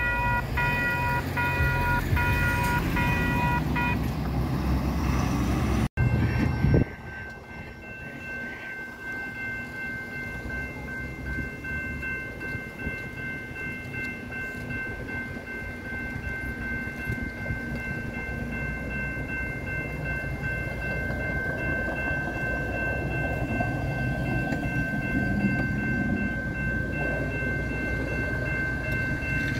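Freight train: a locomotive horn sounds for the first four seconds over a low rumble. After a sudden cut, the train rumbles on with a steady high-pitched squeal held over it.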